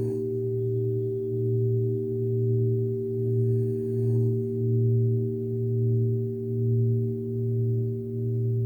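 Crystal singing bowls ringing in long sustained tones, several notes layered, the lowest and loudest wavering in a slow, regular pulse about once a second.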